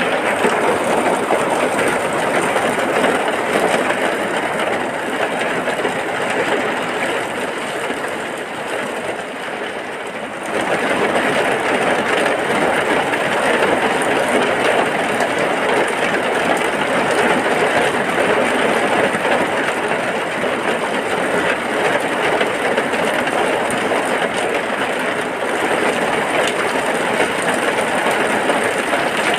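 Heavy rain falling steadily as a dense, even hiss. It eases slightly for a few seconds, then comes back to full strength abruptly about ten seconds in.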